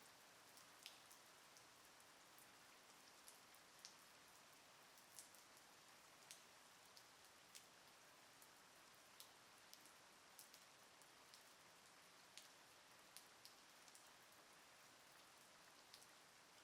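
Faint, steady light rain hiss with scattered individual drops ticking sharply, roughly one every second or so.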